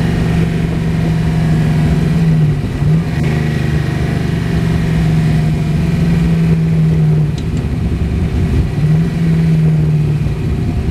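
A car engine running steadily at a loud, even pitch, with two brief dips in engine speed, about three seconds in and again near nine seconds.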